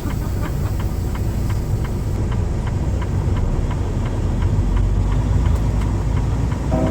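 Truck engine and road rumble inside the cab, with a steady light ticking about three times a second.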